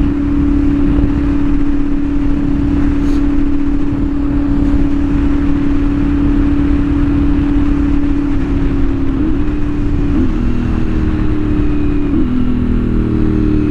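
CFMOTO 450SS parallel-twin engine with an aftermarket slip-on exhaust, running at steady cruising revs under way. In the last few seconds the revs change in several short steps as gears are shifted. Wind noise buffets the microphone.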